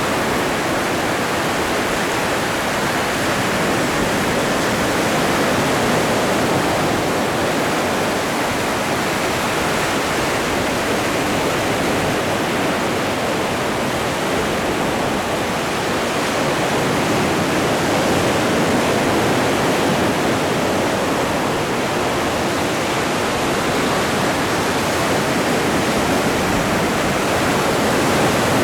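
Atlantic Ocean surf: a continuous rushing of breaking and washing waves, swelling gently in loudness a few times.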